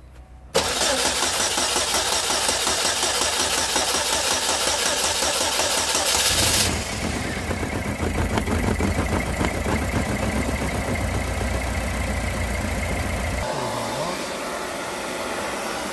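Chevrolet Ecotec LPG engine starts up suddenly about half a second in and runs on steadily. Its sound changes and settles about six seconds in. It has just come to life after its LPG vaporizer was warmed with a hair dryer, the owners' fix for a vaporizer that fails to work in the cold.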